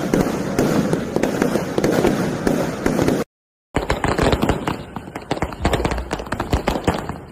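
Aerial fireworks going off in rapid succession: a dense, continuous crackle of many small pops and bangs. It cuts out completely for a split second a little over three seconds in, then the crackling resumes with some deeper thumps.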